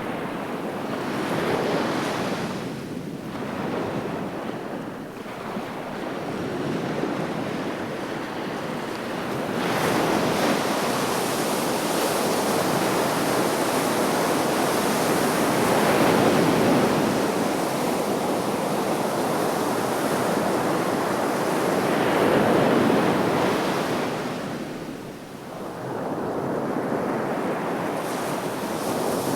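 Black Sea surf: waves breaking and washing up the shore in a continuous rush that swells and ebbs every few seconds, with a brief lull about 25 seconds in.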